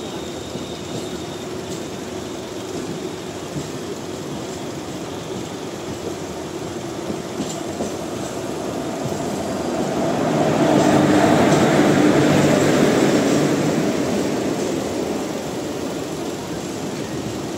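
Steady running noise of a moving EMU local train, heard from its open doorway. It swells as an express train hauled by an electric locomotive passes close by on the next track, loudest from about ten to fourteen seconds in, then eases as its coaches roll past.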